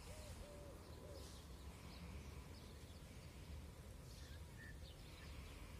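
Faint outdoor ambience: distant birds calling, with a few short repeated calls in the first second, over a low steady rumble.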